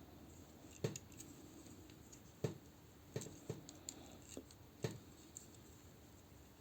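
Hard plastic action-figure parts being handled: a handful of sharp, short clicks and knocks, irregularly spaced, as the parts and joints are moved.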